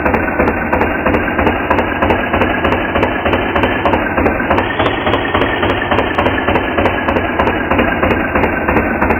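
Tractor engine running steadily with an even, rapid chugging beat of about five pulses a second.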